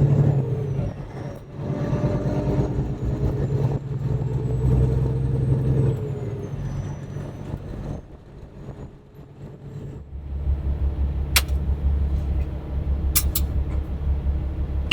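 Semi-truck diesel engine running with a steady drone, which fades about six seconds in. After a lull, a deeper low rumble follows, with a few sharp clicks.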